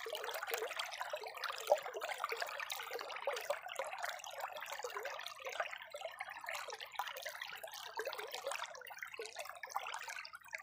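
Spring water trickling and bubbling in a steady, uneven flow of small splashes, with one sharper plop a little under two seconds in.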